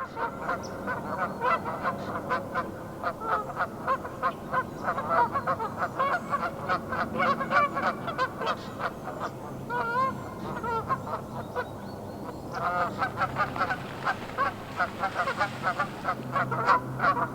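Canada geese honking in a territorial dispute, many loud calls overlapping in a rapid, continuous clamour with a brief lull about two-thirds of the way through.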